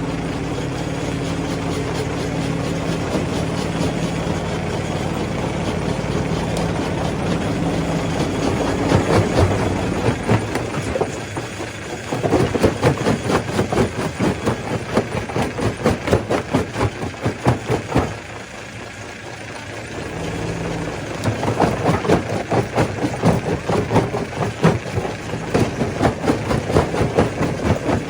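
Stone crusher machine running: first a steady engine hum, then about ten seconds in a dense, rapid clatter of rock being crushed. The clatter comes in two long spells with a brief quieter lull between them.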